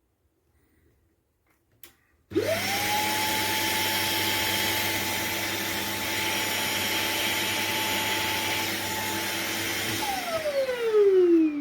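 Shark Detect Clean & Empty vacuum motor switched on after a click, spinning up quickly to a steady high whine over a rush of airflow. After several seconds it is switched off and winds down with a falling whine, with a short louder burst as it stops.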